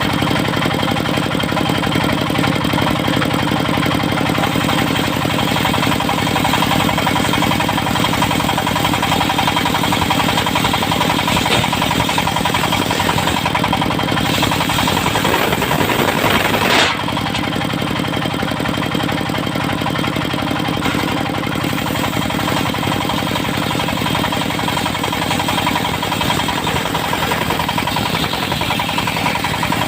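Engine of a portable circular sawmill running steadily under power. Just past halfway a sound rises for a couple of seconds, then the level drops off sharply.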